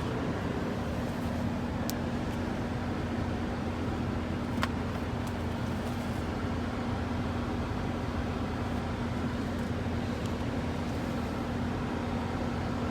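Steady mechanical hum with a constant low drone and a faint hiss, broken by a couple of light clicks about two and five seconds in.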